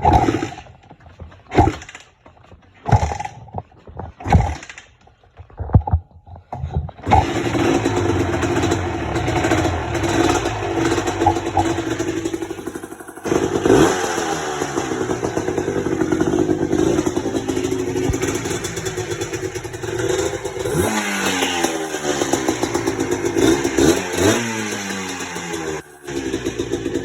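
Honda ATC 250R's two-stroke single with a DG aftermarket exhaust being kick-started: a few short coughs that don't catch, then it fires about seven seconds in and runs. It falters briefly around the middle, then is revved up and down several times.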